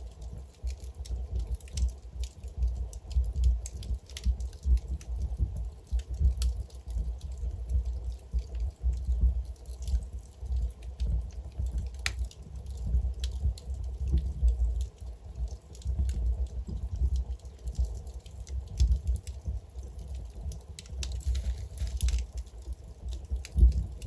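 Wood fire burning in a fireplace: a steady low rumble of flames with frequent, irregular crackles and pops from the burning logs.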